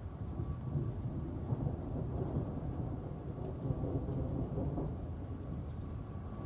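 Low rolling thunder rumbling over steady rain, swelling about a second in and carrying on. A faint steady high tone hums underneath.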